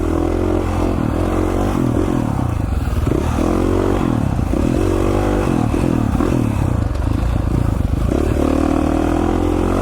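KTM 450 XC-F dirt bike's single-cylinder four-stroke engine being ridden along a trail, its pitch rising and falling over and over as the throttle is worked.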